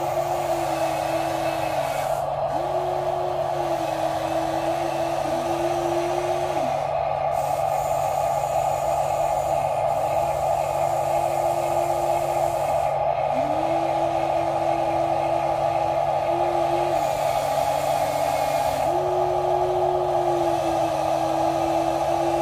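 Small electric motors of RC toy construction vehicles whining steadily, while a second motor, as on an RC excavator working its arm and bucket, starts and stops every one to three seconds, its pitch dipping briefly as it spins up or down.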